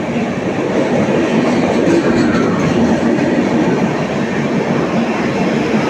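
Indian Railways Humsafar Express passenger train running past, a loud steady rumble of its coaches' wheels on the rails.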